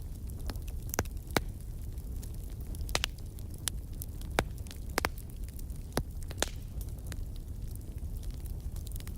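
Wood fire in a fireplace crackling: a steady low rumble of burning with sharp pops at irregular intervals, two of them louder than the rest.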